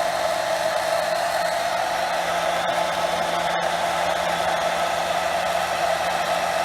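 Hair dryer running steadily, blowing, used to dry water out of a cracked metal detector search coil.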